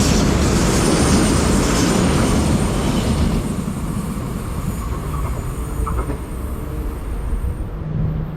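A passenger train running past on the rails, loud for the first three seconds or so, then fading as it moves away.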